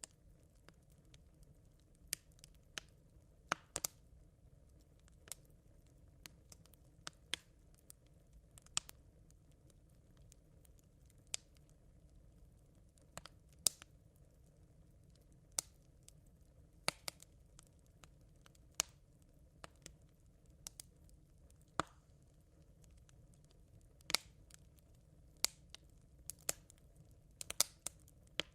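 Smouldering campfire coals crackling: scattered sharp pops and ticks at irregular intervals, sometimes in quick clusters, over a faint low steady rumble.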